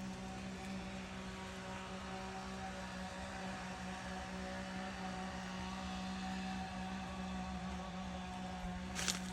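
A motor running steadily with an even hum, with a single short clack near the end.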